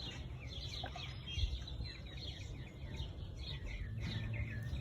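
Small birds chirping, with a quick run of repeated short chirps in the middle, over a steady low outdoor rumble. A small knock about a second and a half in.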